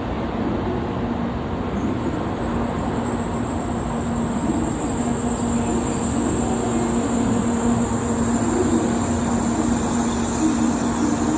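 N700A Shinkansen train pulling into the platform. Its running noise carries a steady low hum, and a high whine joins about two seconds in.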